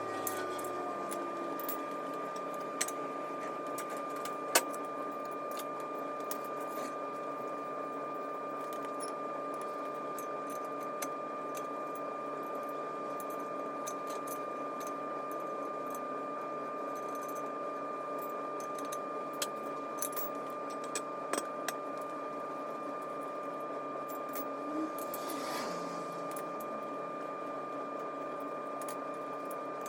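Now and then a sharp metal click or clink from steel parts and tools being handled, with a small cluster of clicks about two-thirds of the way through. Under it runs a steady hum with a constant high whine.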